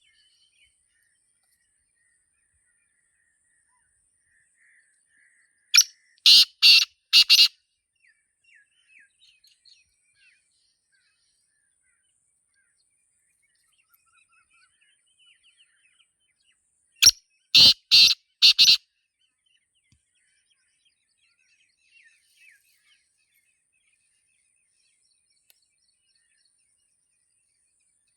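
Black francolin calling: two loud phrases of four short, quick notes each, about eleven seconds apart, with faint chirps of other birds in between.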